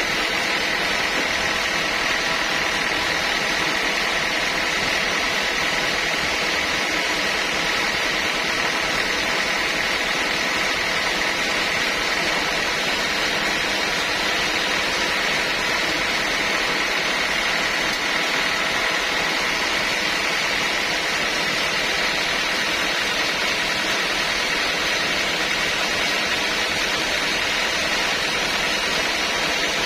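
Sawmill saw running steadily with a constant high whine over machine noise.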